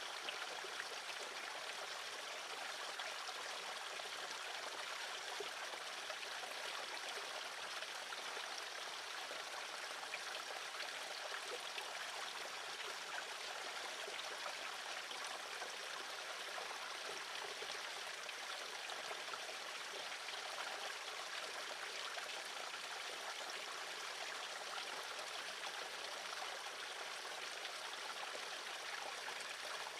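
Steady rushing noise like running water, even and unbroken throughout, with no distinct bird calls standing out.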